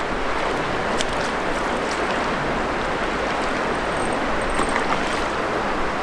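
River water rushing steadily over a run, a constant even hiss of current with a few faint ticks.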